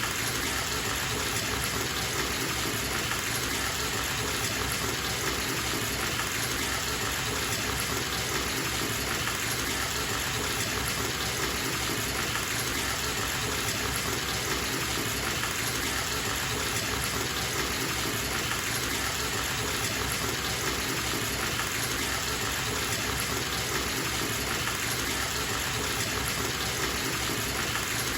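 Bathtub filling from its tap: water pouring steadily into the tub in an even, unchanging rush.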